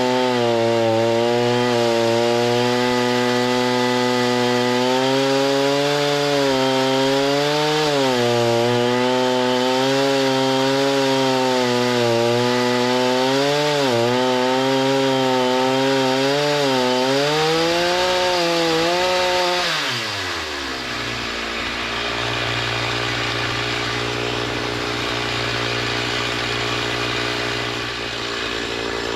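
Chainsaw running at high revs while cutting lumber, its pitch sagging and recovering repeatedly as the cut loads it. About 20 seconds in the revs fall away to a lower, steady idle.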